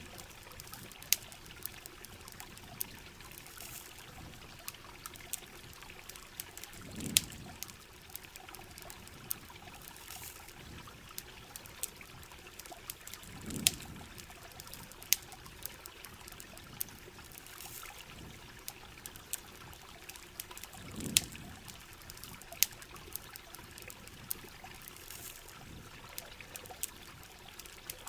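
Steady rain hiss with the sharp, irregular crackles of a campfire, and a soft low water swell about every seven seconds.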